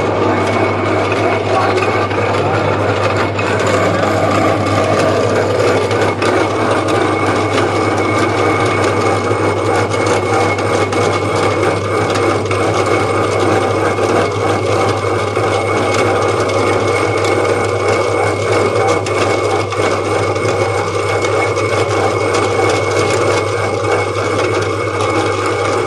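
Metal-turning lathe running steadily, a constant low hum with a steady high whine and scattered small clicks.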